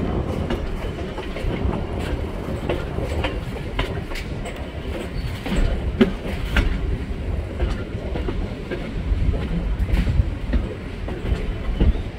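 Passenger train cars rolling along the track, heard from aboard: a steady low rumble with irregular clicks and clacks of the wheels over the rails.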